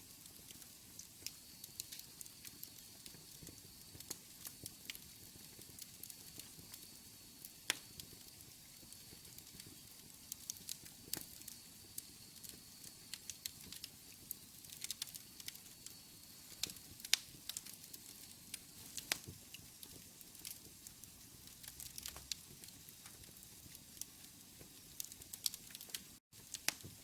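Wood fire in a fireplace crackling, with irregular sharp pops and snaps over a soft hiss. A faint, steady high tone runs through the first half.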